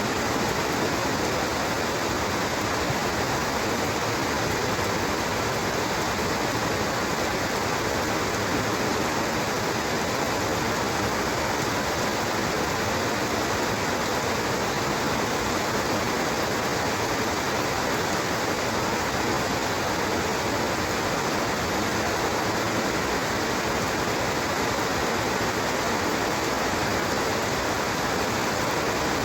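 Steady heavy rain falling, a dense, even hiss with no pauses or separate drops standing out.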